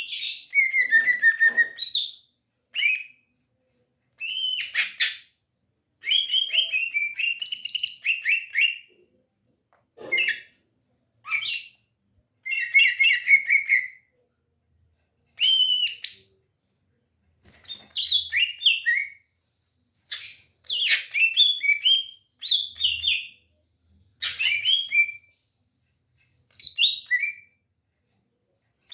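Cucak ijo (green leafbird) singing in full, energetic song: rapid chirps, trills and sweeping whistles delivered in bursts of one to two seconds with short pauses between them.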